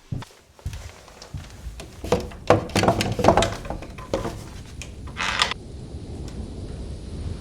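A run of knocks and clattering from objects being handled, with a short rasping scrape about five seconds in, then a low steady rumble of wind noise.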